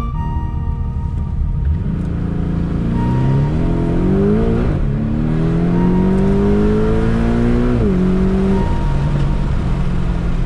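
Porsche Cayman GTS engine heard from inside the cabin, accelerating hard: the pitch climbs, drops at an upshift a little under halfway through, climbs again, and drops at a second upshift near 8 seconds before settling to a steady cruise.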